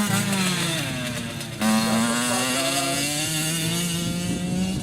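2008 Yamaha YZ85's single-cylinder two-stroke engine revving under riding, its pitch falling and climbing, with a sudden surge in loudness about a second and a half in.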